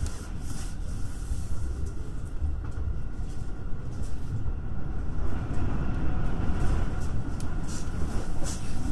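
Musashino Line electric commuter train running, heard from inside the car: a steady low rumble with a few light clicks scattered through it.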